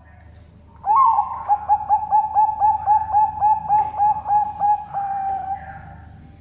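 Bangkok-line zebra dove (perkutut) cooing its full song. A rising opening note comes about a second in, then a quick run of short coos at about four a second, and the song ends on a held note that fades.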